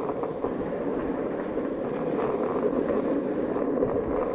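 Strong wind blowing, a steady rushing noise with no distinct events.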